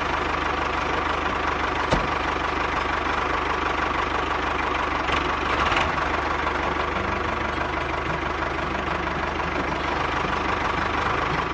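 An engine running steadily at idle, with one short click about two seconds in.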